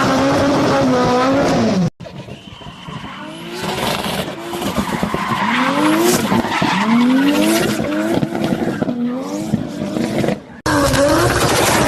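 Turbocharged performance car engines revving hard in repeated rising sweeps, with sharp crackling pops from the exhaust typical of anti-lag. The sound breaks off abruptly about two seconds in and again near the end, where a different engine takes over.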